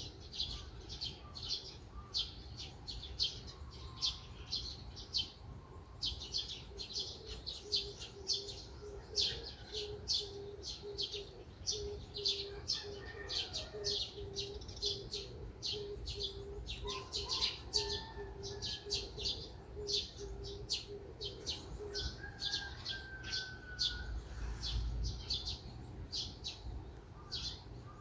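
Many small songbirds chirping rapidly and continuously in high, twittering notes. Through the middle a lower, evenly repeated string of short notes runs alongside, with a few whistled calls near the end.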